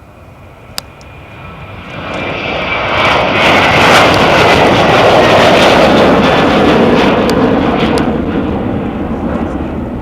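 Airplane taking off and passing by. Its engine noise swells over a couple of seconds, stays loud for several seconds with a high whine that slides slightly down in pitch, then fades away.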